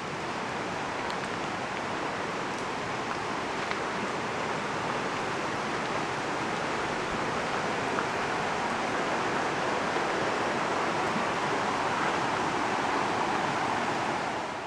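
Steady rushing noise with no distinct tone or rhythm, beginning to fade out at the very end.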